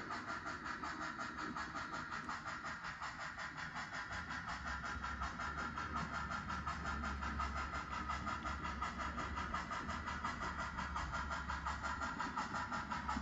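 Model railroad locomotive running steadily, its engine sound a fast, even pulsing with a low hum beneath that grows stronger a few seconds in.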